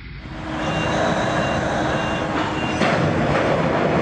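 Reversing alarm on a large mining dump truck beeping at a steady pace, four short high beeps about two-thirds of a second apart, over the loud running of the truck's heavy engine.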